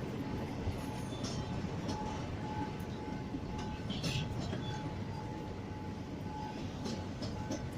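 Train running on the track: a steady rumble with a thin, steady whine over it and a few short high squeaks, the clearest about four seconds in.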